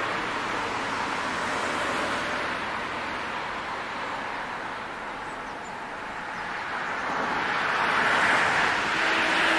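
Diesel train passing over a level crossing: a steady, loud rushing rumble that swells near the end.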